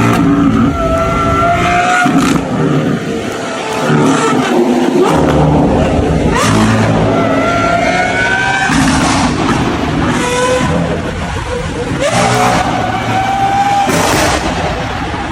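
A V12 supercar engine accelerating hard through the gears: the pitch climbs steeply, drops at each upshift, and climbs again, several times over.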